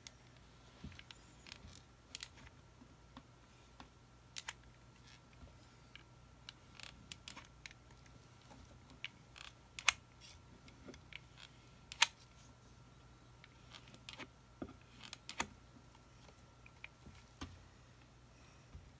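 Scattered light clicks and taps of a clay saucer and a dry grapevine wreath being handled and pressed together while hot glue sets. Two sharper clicks come about ten and twelve seconds in, over a faint steady hum.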